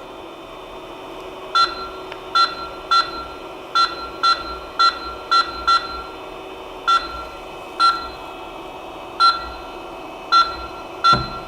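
Creality CP-01 3D printer/engraver's control panel beeping at each button press while the laser head is jogged into position: about fourteen short beeps at one pitch, irregularly spaced, over the machine's steady hum.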